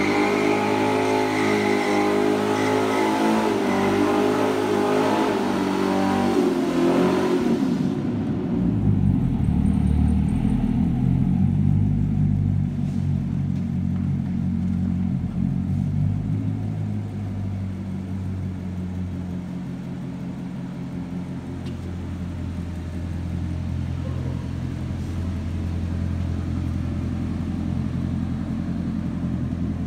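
Chevrolet Corvette C7's V8 held at high revs through donuts, its note rising and falling as the rear tyres spin. The sound changes abruptly about eight seconds in.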